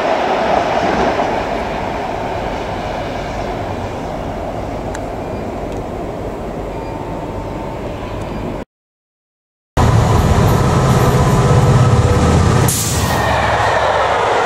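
Class 43 HST power cars running away along the line, a steady engine and rail noise that fades slightly, then a sudden cut. After a second's break, Pullman coaches roll past close by with a deep rumble of wheels on rails and a brief hiss about two-thirds of the way through the second part.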